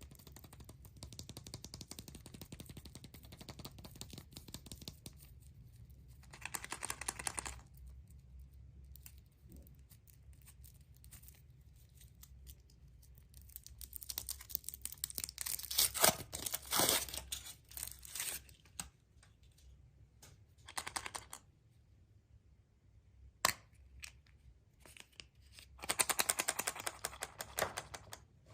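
Surprise-egg wrappers being torn and crinkled in several bursts of crackling, loudest about halfway through, with a single sharp click a few seconds before the end.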